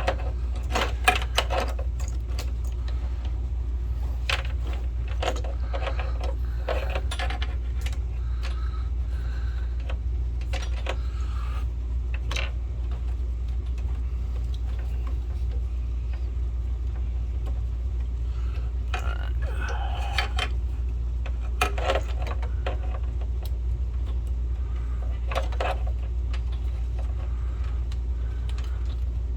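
Scattered clicks and light metallic clinks of hand tools and parts being handled inside an opened projector, in small clusters about a second in and again around twenty seconds in, over a steady low hum.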